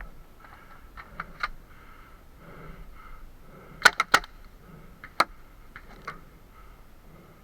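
Paintball markers firing: sharp single pops in irregular clusters, three about a second in, a quick group of three near four seconds, one just after five and two more around six.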